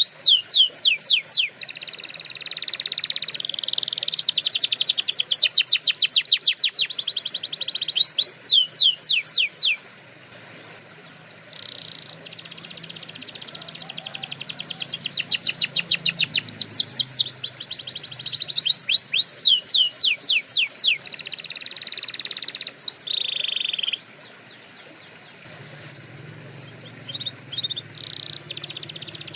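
Canary singing in phrases of quick, downward-sweeping whistled notes and fast trills, with quieter stretches about a third of the way in and near the end.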